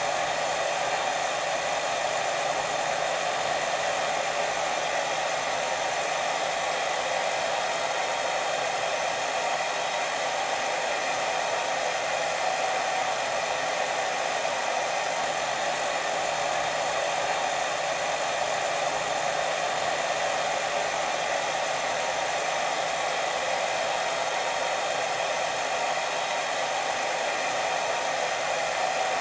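Steady white noise for sleep: an even, unbroken rushing hiss, strongest in the middle range, with no pauses or rhythm.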